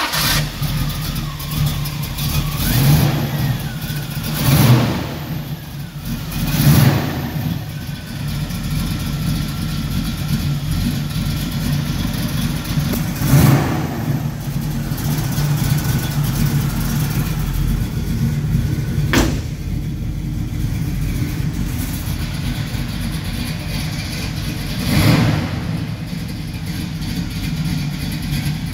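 1968 Chevrolet Camaro's carbureted V8 idling, with the throttle blipped about five times so the engine revs up and drops back to idle each time.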